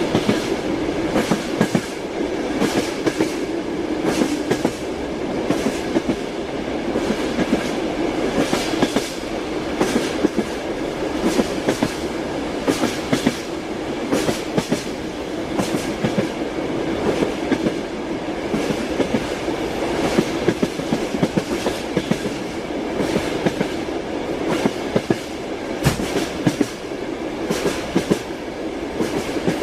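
Moving train's wheels clacking over the rail joints over a steady running rumble, with sharp clacks coming irregularly throughout.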